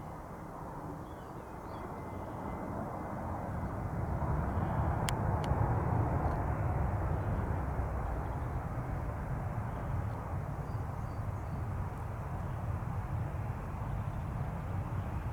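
Rumble of a Wizz Air Airbus A321's jet engines after landing, swelling to its loudest about five to six seconds in and then holding steady.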